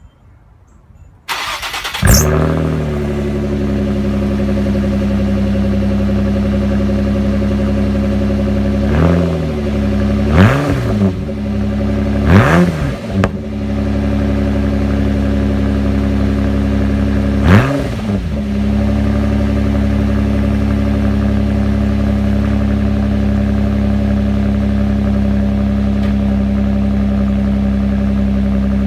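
Cold start of a 1998 Nissan Maxima's VQ30DE 3.0-litre V6: a second of cranking, then it catches with a flare and settles into a steady idle. It is revved briefly four times, then idles steadily again.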